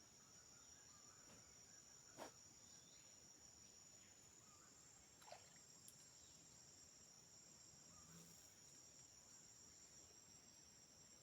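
Faint, steady, high-pitched insect chorus of crickets or cicadas, with two brief sharp sounds about two and five seconds in.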